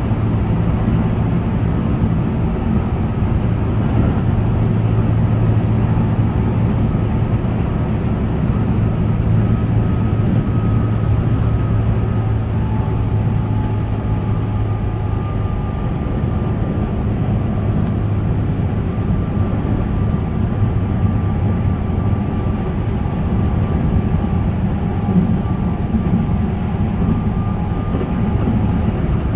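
Keihan 8000 series electric train running at speed, heard from inside the passenger car: a steady rumble of wheels on rail with a faint whine that drifts slightly lower.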